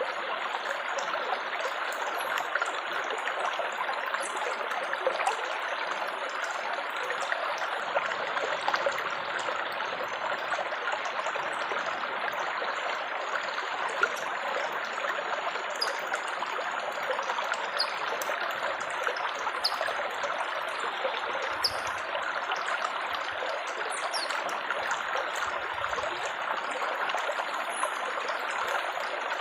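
Water trickling and babbling steadily, like a small stream.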